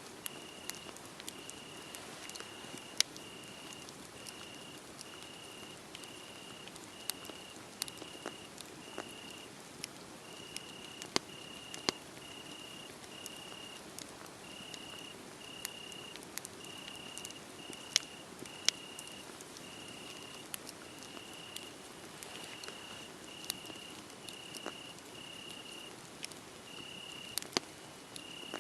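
Wood fire crackling, with scattered sharp pops over a low steady hiss, while a cricket chirps in an even, high-pitched pulse about one and a half times a second, pausing briefly twice.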